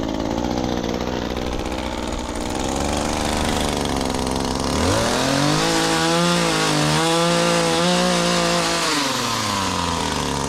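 Chainsaw engine running, revved up about halfway through, held at high speed for about four seconds, then let back down.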